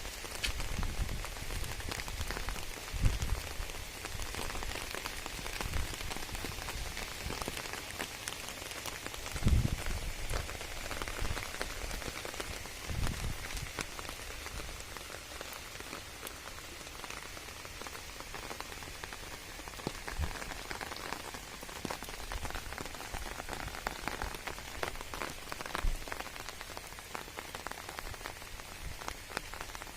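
Steady rain falling on garden plants, a continuous hiss full of single drop strikes. A few low thuds stand out, about 3, 9 and 13 seconds in.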